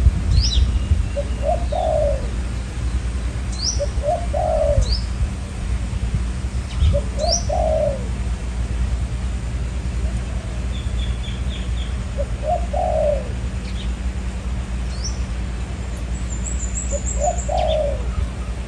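Spotted doves cooing: a short note, then a longer falling coo, repeated about every three seconds. Small birds chirp briefly and high above it. A steady low wind rumble buffets the microphone.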